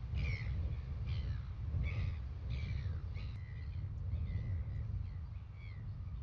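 A series of short bird calls, about one every two-thirds of a second, some sliding down in pitch, over a steady low rumble.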